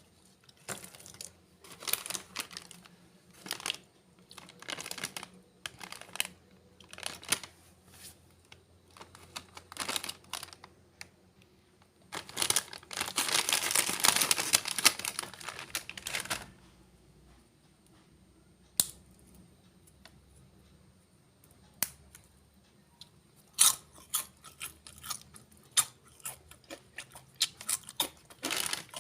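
Crunchy snacks being bitten and chewed in repeated short, sharp crunches, close to the microphone. About halfway through there is a four-second stretch of dense rustling and crinkling, like a snack packet being handled.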